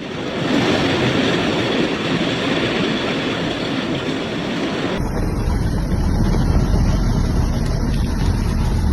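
Storm noise: wind and heavy rain rushing steadily. About five seconds in it changes abruptly to a deeper rumble of wind buffeting the microphone.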